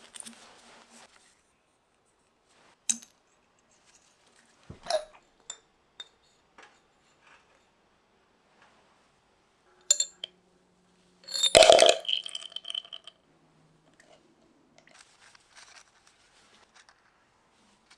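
A few separate metallic clicks and clinks of small parts and tools being handled, then a louder clattering rattle about twelve seconds in.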